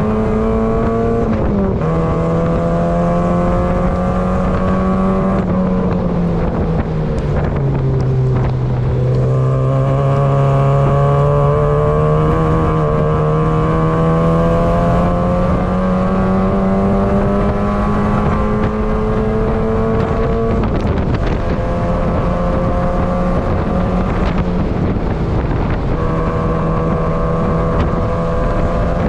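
Mazda MX-5 race car's four-cylinder engine heard from inside the cabin while lapping. Its pitch drops about a second and a half in, sinks under braking about six seconds in, then climbs steadily for about ten seconds before falling sharply about twenty seconds in and running fairly level after.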